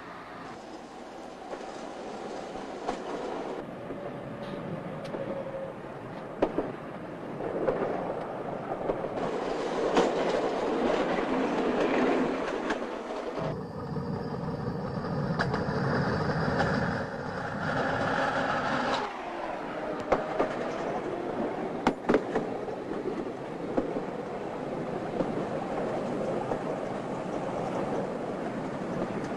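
Rail vehicle running along the track, wheels clacking over the rail joints with scattered sharp clicks. The running sound changes abruptly about 13 and 19 seconds in.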